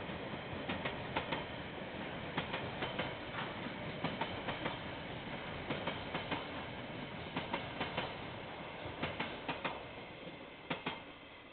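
KiwiRail train rolling past, its wagon wheels clicking over the rail joints in repeated pairs and groups over a steady rumble. The clicking stops and the rumble fades near the end as the tail of the train passes.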